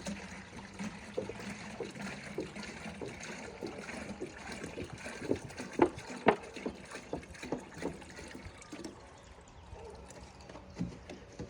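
Diluted fish fertilizer being poured onto garden plants, a steady trickling hiss with scattered small splashes and taps. The liquid tapers off near the end.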